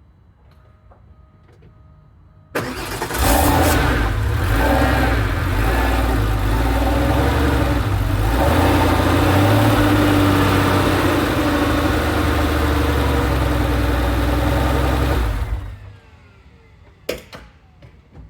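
Air-cooled 3.6-litre flat-six of a 1995 Porsche 993 Carrera Cabriolet starting from ice cold: it cranks briefly, catches about two and a half seconds in, and runs at a steady cold idle for about thirteen seconds before being switched off. A single sharp click follows soon after.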